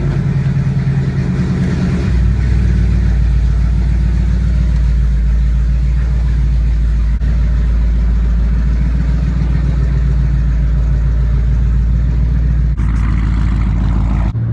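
Car engine running steadily, a loud, deep drone with a fast, even pulse; about two seconds in the low note deepens and grows stronger, then holds steady.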